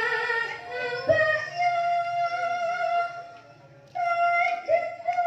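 Banyumasan gamelan music in the gending ebeg style: a high voice sings long, wavering held notes, pausing briefly about three-quarters through before another phrase begins.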